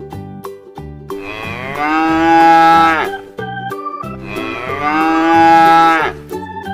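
Domestic cow mooing, two long calls of about two seconds each, over a light keyboard melody in the background music.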